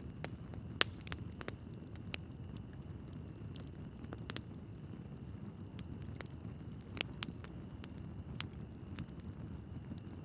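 Wood fire burning in a fireplace: logs crackling with irregular sharp pops over a low steady rumble of flames. The loudest pops come about a second in and again around seven seconds.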